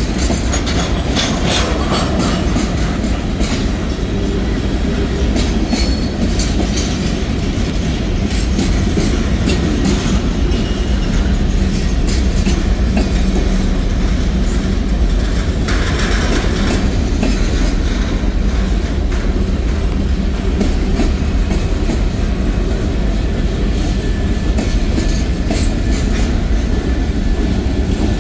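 Freight train's tank cars and covered hopper cars rolling past loudly: a steady rumble with the wheels clicking over rail joints.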